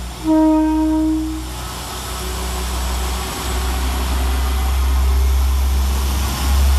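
Class 172 Turbostar diesel multiple unit pulling out: a single short horn note about a quarter second in, lasting about a second, then the underfloor diesel engines running under power with building wheel and rail noise as the carriages pass.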